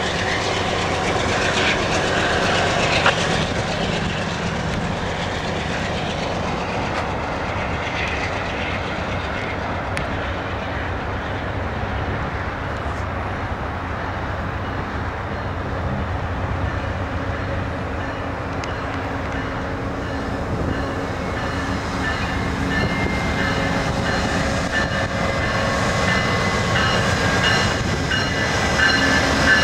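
A BNSF freight train rolls past with a steady rumble of wheels on rail and clickety-clack, its rear GE C44-9W diesel locomotive going by at the start. An Amtrak passenger train led by a P42DC locomotive then rolls in to stop, and thin high-pitched brake squeal sets in over the last several seconds as it slows.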